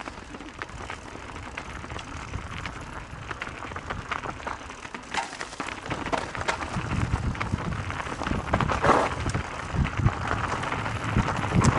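Mountain bike riding over a rough dirt trail: tyre noise with frequent clicks and rattles from the bike, growing rougher with more low rumbling in the second half.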